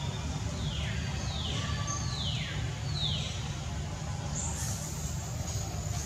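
A bird calling a series of four falling notes, each sweeping down in pitch, about one a second, over a low steady rumble.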